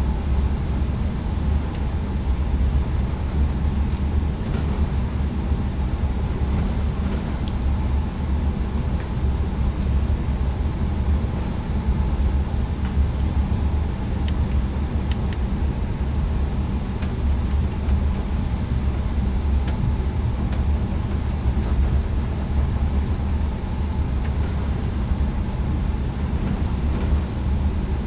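Steady low rumble of airliner cabin noise inside an Airbus A320neo, with its engines running at an even setting. It does not build up, with only a few faint ticks.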